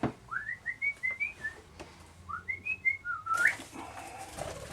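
Small pet bird chirping: two quick runs of short, high, rising chirps, the second run ending a little past the middle.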